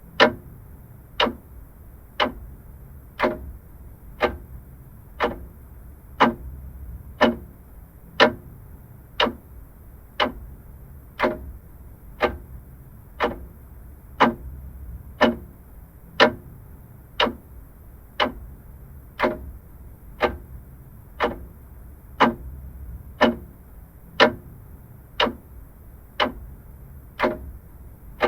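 Vintage mechanical clock ticking steadily, one sharp tick about every second, over a faint low background hum.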